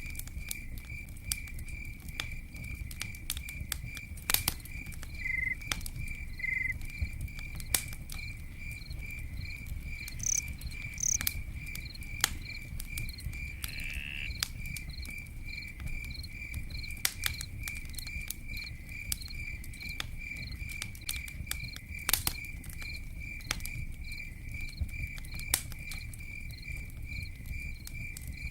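Campfire crackling and popping over a low rumble, with a cricket chirping in an even, steady rhythm throughout. A few short, higher calls from other insects or birds cut in now and then.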